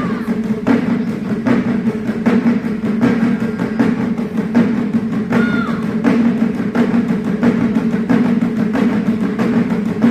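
Japanese wadaiko taiko ensemble drumming: a dense, fast, steady stream of stick strokes on the drums, with some drier wood-like clicks among them.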